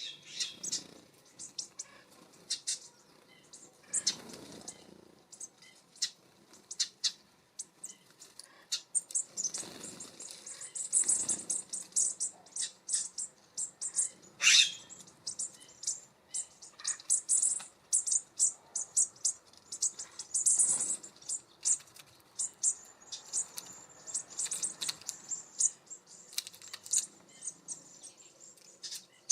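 A flock of small songbirds, which the uploader takes for American bushtits, twittering with many short, high, thin calls that come thickest in several bouts, with occasional wing flutters and small knocks.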